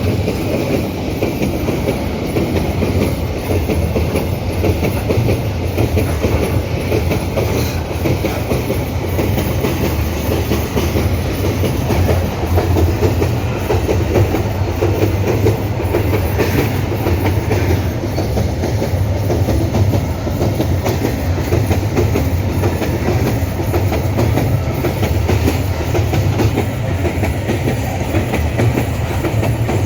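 Empty iron-ore wagons of a long freight train rolling steadily past, their wheels running over the rails at close range.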